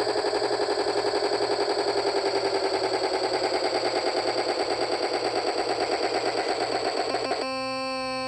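Electronic sound chip of a State Road Rippers toy lowrider truck glitching: a rapid stuttering pulse, about ten a second, that switches abruptly near the end to a steady electronic buzz tone.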